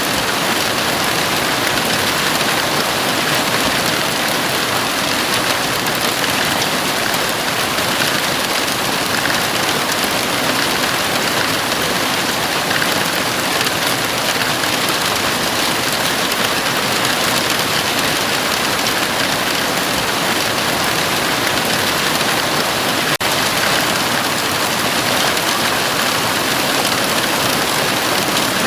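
Heavy rain falling steadily on a house roof, a dense, even hiss of drops with no let-up.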